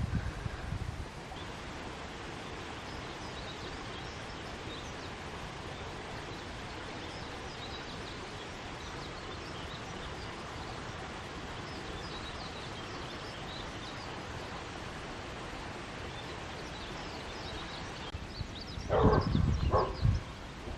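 A dog barking twice, about a second apart, near the end, over a steady outdoor rush with faint, scattered bird chirps.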